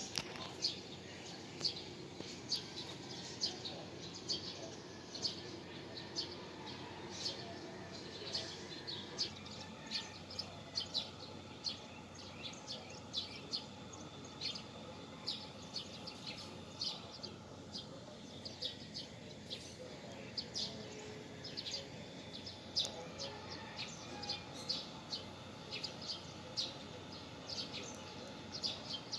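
Birds chirping: a steady run of short, high chirps, one or two a second, over a low background noise that eases about nine seconds in.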